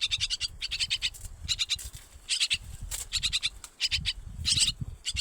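Baby birds chirping in repeated high-pitched trilled bursts, each about half a second long, with a low rumble underneath.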